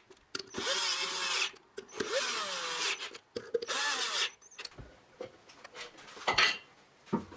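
Power drill run in three short bursts, its motor whine rising as it spins up and falling as it stops each time. A sharp knock follows a couple of seconds later.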